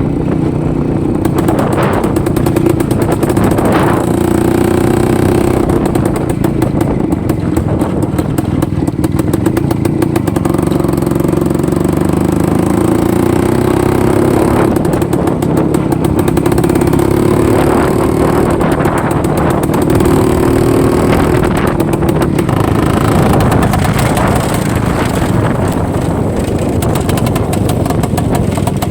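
IZh-49 single-cylinder two-stroke motorcycle engine running under way, its pitch falling and rising repeatedly as the throttle is eased and opened.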